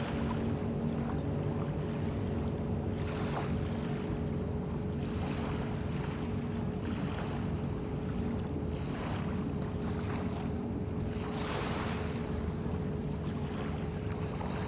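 Small bay waves washing in, swelling every second or two, over a steady low hum like a boat engine running.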